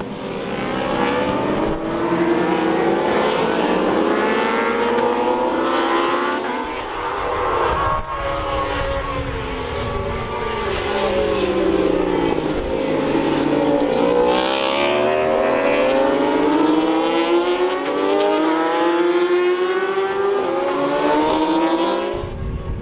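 Several racing motorcycles running hard together, their overlapping engine notes climbing and falling in pitch as they accelerate and pass. The sound drops abruptly just before the end.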